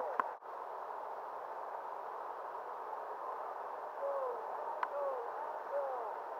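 River water rushing steadily, with short gurgling tones from water around the kayak about four to six seconds in and a couple of light ticks.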